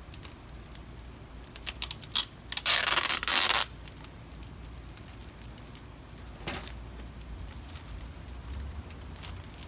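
Box tape ripped off the roll in one loud pull lasting about a second, about three seconds in, with a few short crackles of tape being handled before and after it.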